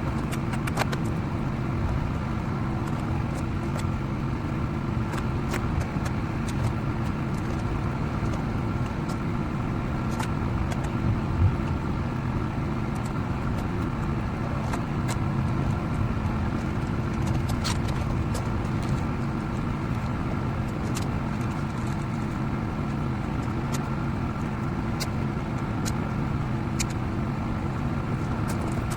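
A steady mechanical drone, like an engine or motor running, with a few faint clicks scattered through it.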